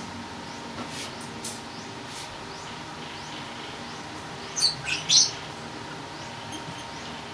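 A small bird chirping: a couple of faint chirps about a second in, then a quick run of three louder, high-pitched chirps at about four and a half to five seconds, over a faint steady hum.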